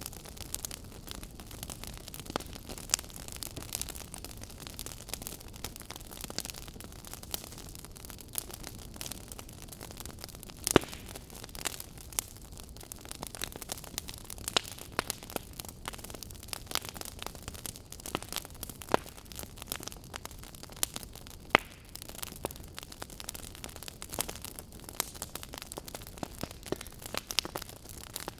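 Wood fire burning, with a steady hiss and constant crackling, and sharp pops from the burning logs, the loudest about eleven seconds in.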